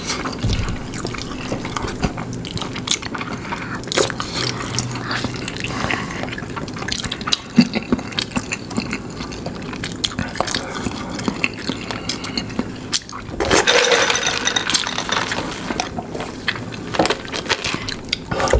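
Close-miked wet chewing and smacking of saucy fried chicken, a run of small sharp clicks and squelches, with a denser, louder noisy stretch of about a second and a half roughly three-quarters of the way through.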